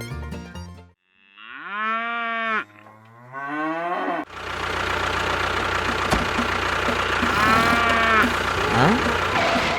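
A cow mooing, two long calls, then a steady engine-like running noise starts about four seconds in, with another moo over it partway through.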